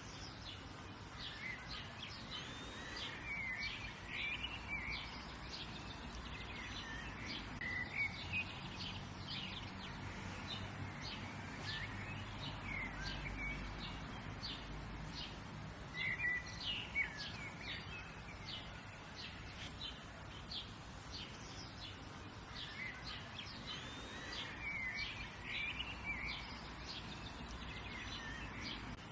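Songbirds chirping and calling, many short chirps and brief trills in quick succession, over a steady low background rumble.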